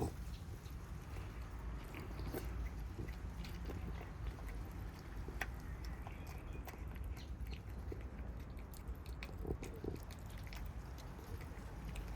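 Cats eating, their chewing heard as many small irregular clicks.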